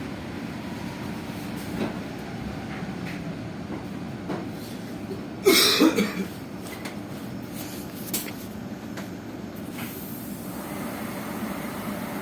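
Steady cabin noise inside an electric bus, with a few faint knocks and one brief loud burst about five and a half seconds in that tags as a cough.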